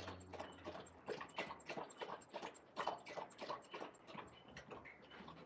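Faint, irregular clicks and taps, several a second, from an Alaskan Malamute.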